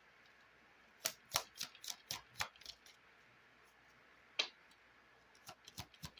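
Tarot cards being handled and drawn from the deck: a quick run of sharp card clicks about a second in, a single click a little past four seconds, and a few more near the end.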